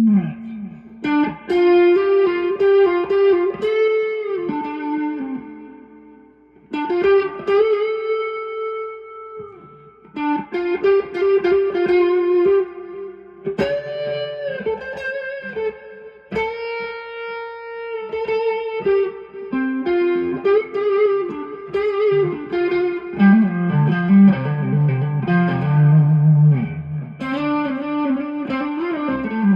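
Stratocaster electric guitar played through a Bluesbreaker-style overdrive pedal stacked into a TS10 Tube Screamer and a Two-Rock amp with delay. It plays lightly overdriven blues lead phrases with string bends and held notes, pausing briefly between phrases.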